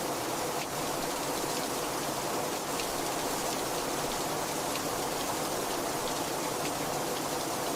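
Heavy rain falling steadily, a dense even hiss with the patter of individual drops.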